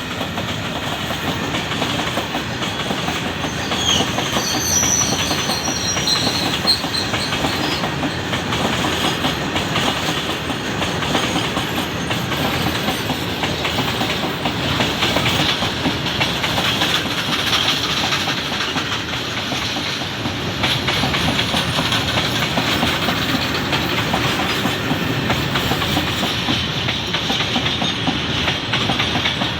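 A train hauled by an Indian Railways WDM-class diesel locomotive rolling past steadily, its wheels clattering over the rail joints, with a brief high squeal about four seconds in.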